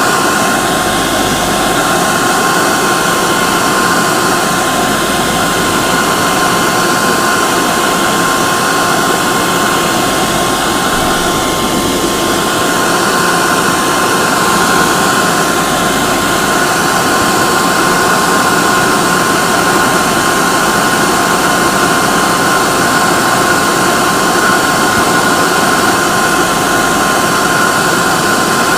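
Hair dryer running steadily: a continuous blowing rush with a steady high whine from its motor.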